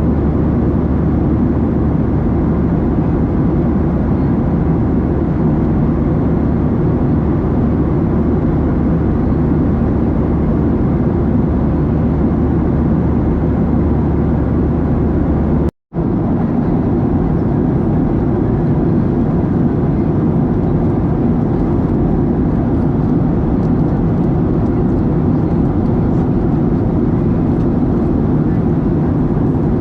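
Steady cabin noise of a Boeing 737-700 in flight: the rush of airflow and the hum of its CFM56-7B engines, heard inside the cabin. About halfway through it cuts out for a split second and comes back with a slightly different low hum.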